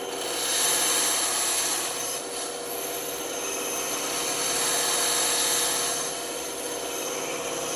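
Scratchy rubbing on wood, swelling in two long strokes.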